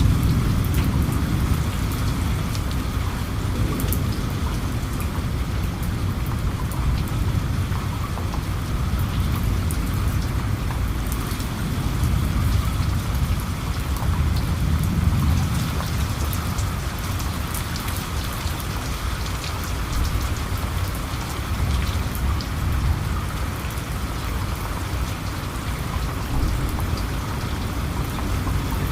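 Steady rain falling, with many scattered sharp drop ticks over a deep low rumble that swells and fades slightly.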